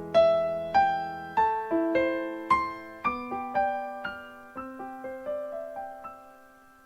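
Slow, gentle piano music: single notes struck about twice a second, each ringing and fading. The notes grow sparser and die away near the end.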